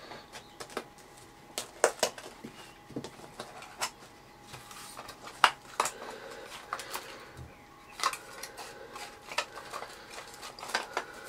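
Irregular clicks and knocks of a screwdriver and plastic parts being handled as a vintage Electrolux vacuum cleaner's floor head is taken apart, the sharpest knock about five and a half seconds in.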